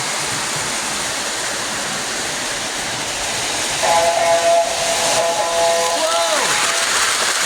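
Lionel toy train whistle blowing a chord of several steady tones for about three seconds, starting about halfway in, its pitch sagging downward as it dies away. Under it runs a steady rushing hiss from the running train layout.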